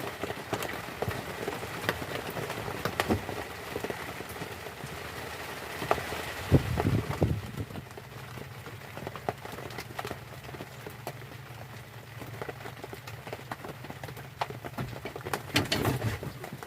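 Heavy rain pattering steadily, with scattered sharp taps and knocks of drops on nearby surfaces. A low steady hum comes in about halfway through.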